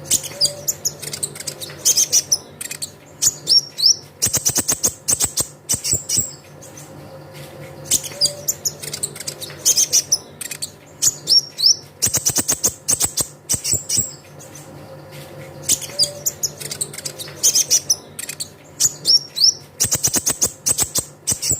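Kolibri ninja (a sunbird) singing: bright high chirps, rapid clicking trills and quick upward-sweeping notes. The same song phrase repeats about every eight seconds, as a looped lure recording.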